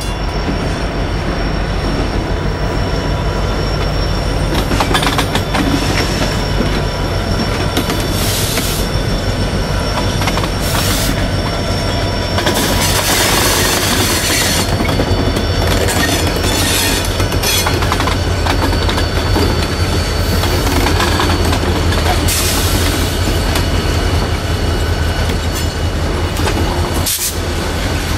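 EMD SD40-3 diesel locomotives of a freight train passing close by, their engines giving a steady low rumble, with high-pitched wheel squeal rising in several bursts, loudest about 13 to 15 seconds in.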